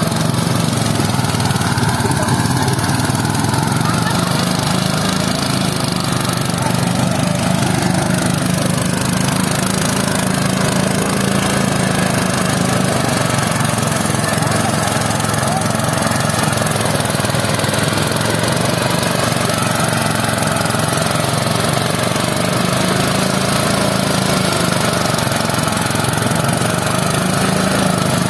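Small engine running steadily without a break.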